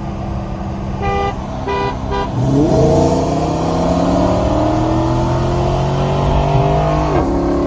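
A car horn beeps three times over a running engine, then a car engine takes off under hard acceleration, its pitch climbing steadily for about four seconds before it lets off near the end.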